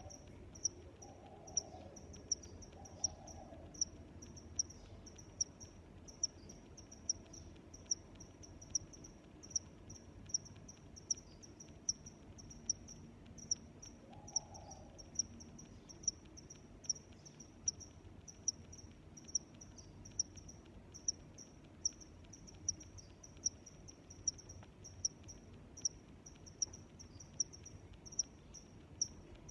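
A cricket chirping steadily: a short, high-pitched chirp repeating evenly, a little more than once a second.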